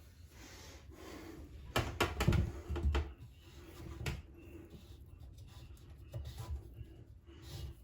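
Sink drain fittings being handled and tightened by hand: knocks and clicks, with a cluster of sharp clicks about two seconds in and another near four seconds, among softer rubbing and rustling.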